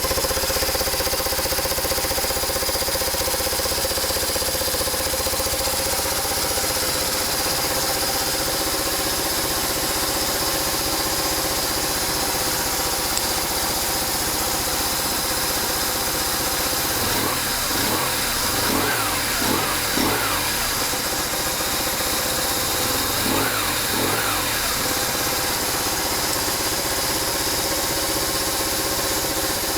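BMW R1100 motorcycle's air/oil-cooled boxer twin idling steadily, run after a month standing unused. About two-thirds of the way through it is blipped a handful of times, the pitch rising and falling with each blip, in two short groups.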